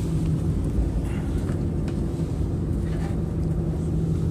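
Train running, heard from inside the passenger carriage: a steady low rumble with a constant hum and a few faint ticks.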